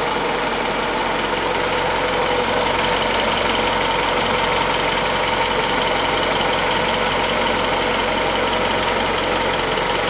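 Willys L-head flathead four-cylinder engine (134 cubic inch, 60 horsepower) idling steadily while still cold, running smoothly.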